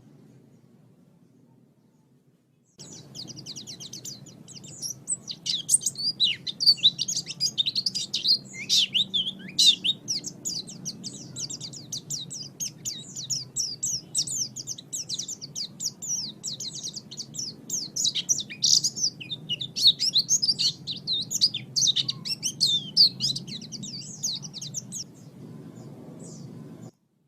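White-eye (pleci) singing a long, fast, high twittering song of rapid chirps, played as a tutor (masteran) recording for training cage birds. It starts suddenly about three seconds in and cuts off abruptly near the end, over a low steady hum.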